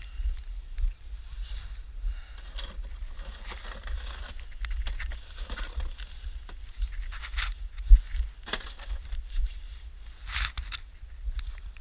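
Snow shovel scraping and pushing through snow in irregular strokes, the loudest about seven and a half and ten and a half seconds in, over a steady low rumble.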